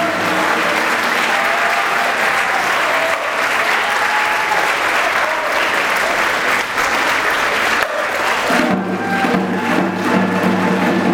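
Audience applauding. Steady low held tones sound under the clapping at the start and come back about eight seconds in.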